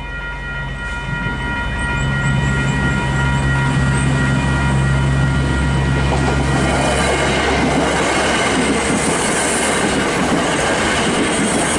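Train arriving and passing over a level crossing: a low hum in the first few seconds gives way, about halfway through, to louder wheel and rail noise with some clatter. The crossing's electronic bell rings steadily throughout.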